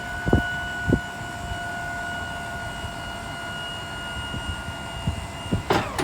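A steady high-pitched electric motor whine, with a few dull thumps, that cuts off with a clatter near the end.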